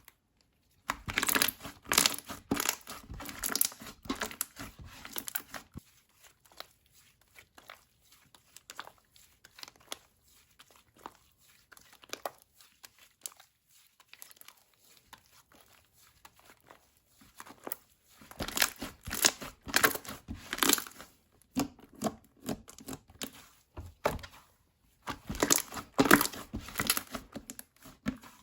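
Slime being squeezed, stretched and pressed by hand, giving dense runs of small crackles and pops. Busy at first, sparse for a long middle stretch, then busy again near the end.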